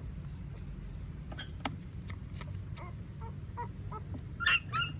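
Puppies whimpering and squealing: faint short squeaks, then two loud, high squeals near the end.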